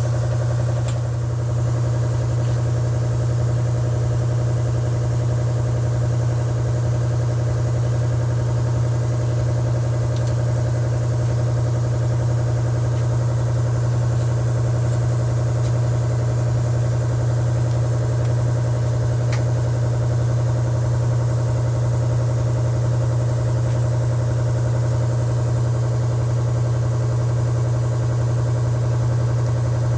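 A motor running with a steady, loud hum at one low pitch.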